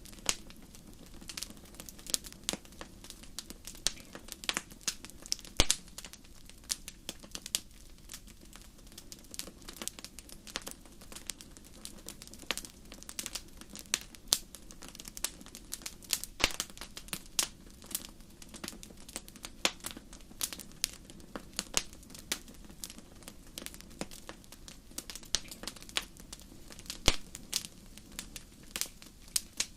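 Wood fire burning in a fireplace, crackling and popping irregularly with many sharp snaps over a steady low rush of the flames.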